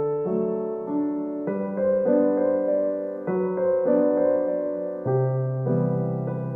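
Background music: a slow, gentle solo piano piece, with a new note or chord struck about once a second and each one ringing out.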